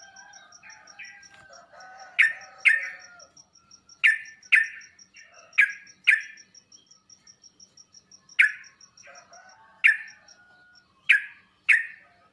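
Yellow-vented bulbul (trucuk) calling: loud sharp notes, mostly in pairs about half a second apart, repeated every second or two over softer chattering. A fast, steady, high ticking runs behind them and fades out about two-thirds of the way through.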